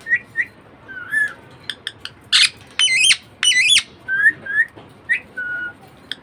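Budgerigar chirping and warbling: a run of short chirps and whistled calls, with a few louder rapid warbled calls between about two and four seconds in.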